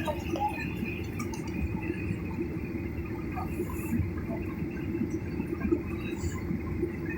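Steady low rumble of a passenger airplane, heard from inside the cabin, with no change in pitch or level.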